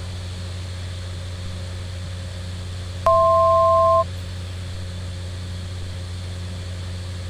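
Steady cabin drone of a Cessna 208 Caravan's PT6A turboprop on final approach. About three seconds in, a loud two-note electronic alert tone sounds once for about a second.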